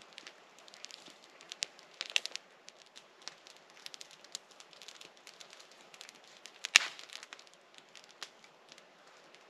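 Wood campfire burning on river ice, crackling with scattered small pops and one loud sharp pop about seven seconds in.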